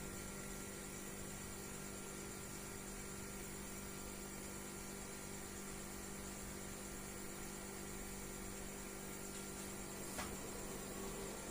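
Steady low hum over a background hiss, with one faint click about ten seconds in.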